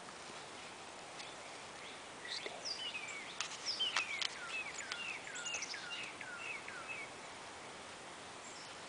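A songbird singing a run of quick, repeated down-slurred whistled notes for a few seconds, starting about two seconds in, over faint outdoor background hiss.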